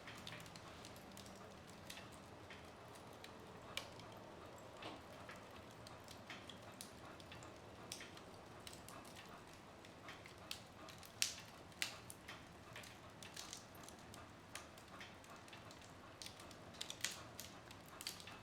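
Wood fire burning in a fireplace, crackling faintly: irregular sharp pops and snaps of burning wood over a soft hiss, with the loudest pops about eleven seconds in and near the end.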